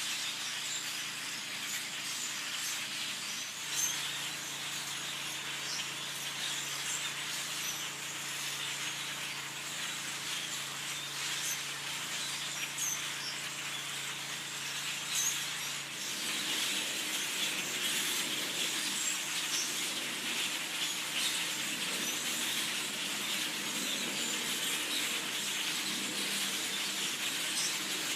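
A huge flock of birds calling at once from the trees: a dense cacophony of countless overlapping chirps and chatter, growing louder a little past halfway.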